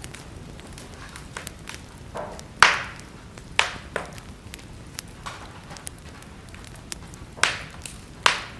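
Wood fire crackling in a fireplace: frequent small snaps over a low steady hiss, with five louder pops, the loudest about two and a half seconds in.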